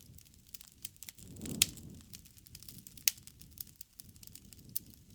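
Wood fire crackling: a soft low rustle of burning wood with frequent small ticks and several sharp, loud pops, the loudest about a second and a half in.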